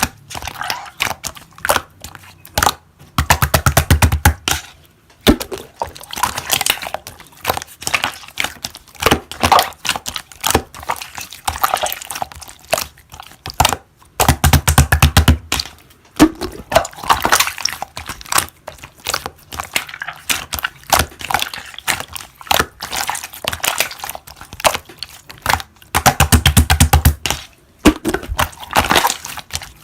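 Slime being squished and worked by hand, making sticky crackles and pops. Three times, about every eleven or twelve seconds, comes a rapid run of clicking pops.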